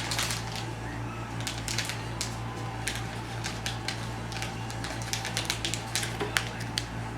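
Plastic snack packaging being handled, making irregular light crinkles and clicks.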